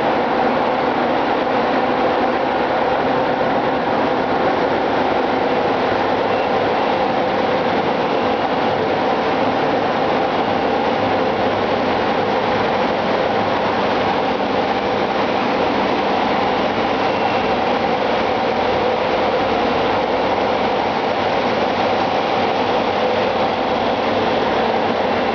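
Ship's engine-room machinery running: a loud, steady, unbroken drone.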